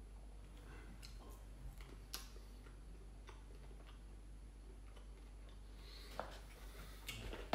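Faint, scattered mouth clicks and smacks of someone chewing fried chicken, a few isolated clicks spread over several seconds, over a low steady hum.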